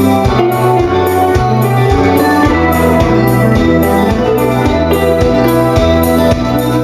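Live rock band playing the song: a steady drum beat, bass notes changing with the beat, and sustained guitar and keyboard chords.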